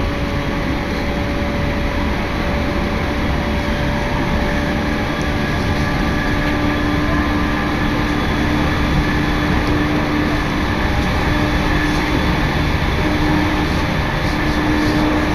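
Tokaido Line electric commuter train running at speed, heard from inside the passenger car: a steady rumble and rail noise with a few held, even tones from the running gear.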